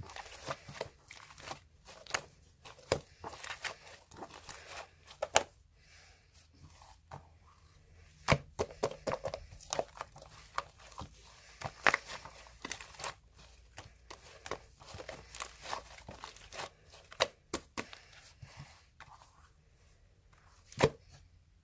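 Slime being squeezed, stretched and poked by hand, making irregular crackling and popping with a few sharper, louder pops.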